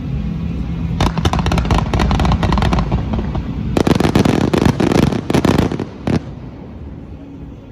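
Fireworks crackling: a run of rapid crackles starts about a second in, then a louder, denser volley of crackles from about four seconds stops suddenly just after six seconds. A low steady hum lies under the start.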